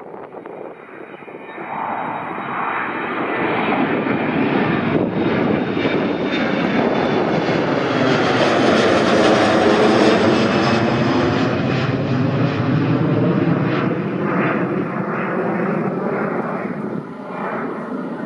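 Fixed-wing airliner passing close by on landing or takeoff: a loud engine rush that builds over the first few seconds, is loudest around the middle, then slowly fades.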